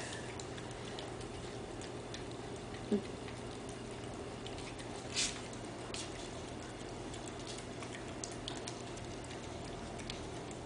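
Light, irregular clicks and ticks over a steady low hum, with a short squeak about three seconds in and a brief rustle-like burst about five seconds in.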